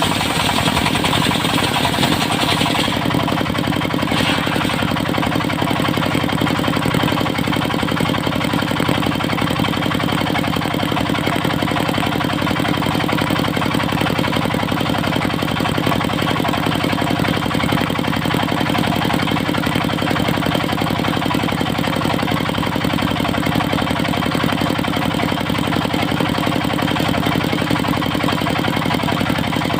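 Engine of a portable circular sawmill running steadily. A higher-pitched saw noise dies away about three seconds in, leaving the engine running on its own.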